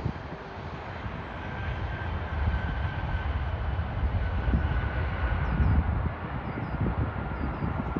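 Low rumble of a landing jet airliner, swelling to its loudest about two-thirds of the way in and then easing, with a faint steady whine above it.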